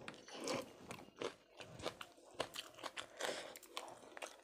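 A person chewing toasted brown bread with chicken: irregular crunches and wet chewing clicks.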